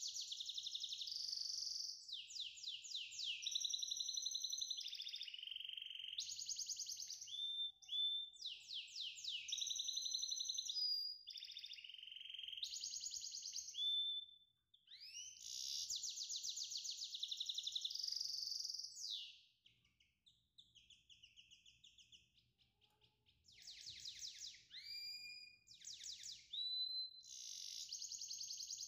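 A songbird singing: long, fast trills and rattles mixed with rising whistles, with a pause of a few seconds about two-thirds of the way through.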